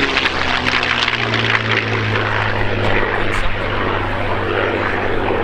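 P-51D Mustang's Merlin V12 engine and propeller running in a steady low drone as it flies by, with some crackle near the start.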